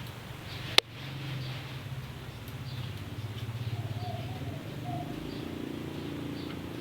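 Barbary dove (burung puter) giving a low, rapidly fluttering rolling call, its dove 'laugh'. A single sharp click comes just under a second in, and a few faint short chirps are heard.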